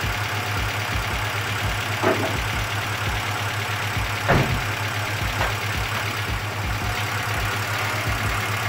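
Hyundai Excel's four-cylinder engine idling steadily with rattling noises, and a brief knock about four seconds in.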